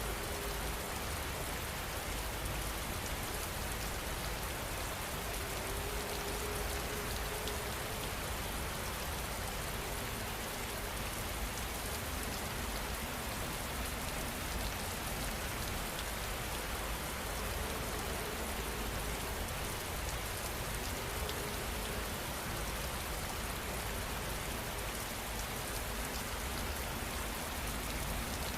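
Steady rain falling, a constant even hiss of drops with a low rumble underneath and no change in intensity.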